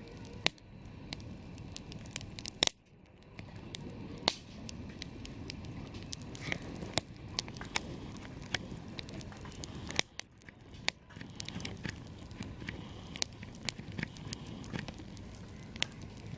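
Wood campfire crackling: irregular sharp pops and snaps over a steady low rustle of burning flames.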